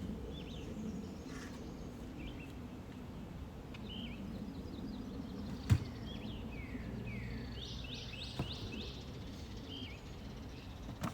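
Small birds chirping in short repeated notes and quick falling sweeps over a steady outdoor background, with one sharp knock about halfway through and a couple of fainter clicks later.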